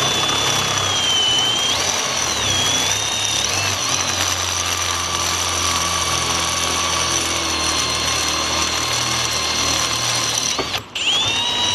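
Power drill boring out a starter motor's threaded mounting hole so it will take a stud. The motor whine wavers in pitch as the bit cuts, stops briefly near the end, then starts again.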